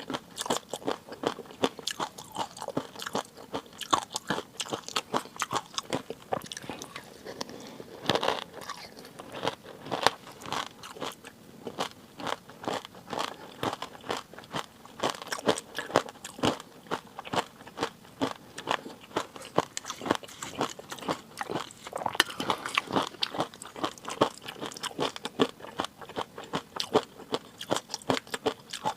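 A person eating close to the microphone: chewing and biting with a dense, continuous stream of crisp crunching clicks.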